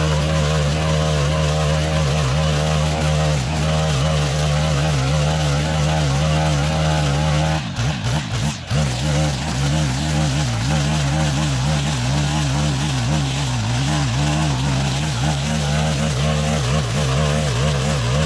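Stihl FS 131 brushcutter's small 4-MIX engine running steadily at high throttle while cutting tall grass. The sound briefly breaks off and dips about eight seconds in, then picks up again.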